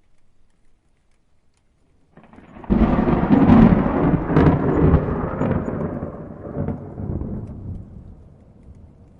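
A thunderclap: after a quiet start, a rumble builds about two seconds in and breaks into a loud, crackling peak. It then rolls away slowly over the next several seconds.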